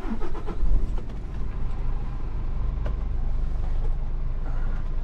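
Lorry engine running with a deep, steady rumble, picking up about half a second in as the truck gets under way.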